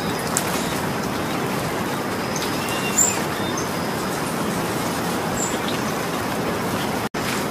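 Steady rain falling, a continuous even hiss, with a few faint short bird chirps over it and a brief sharp tick about three seconds in. The sound cuts out for an instant near the end.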